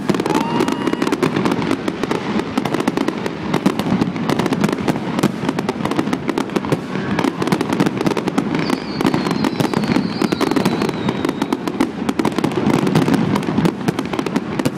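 Fireworks going off in a dense, continuous crackle of many rapid small bangs. A high whistle sounds from about halfway through, falling slightly in pitch over two to three seconds.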